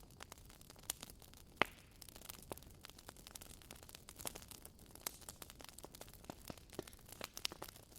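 Wood fire crackling in a fireplace: irregular small pops and snaps over a low rumble, with one sharper pop about one and a half seconds in.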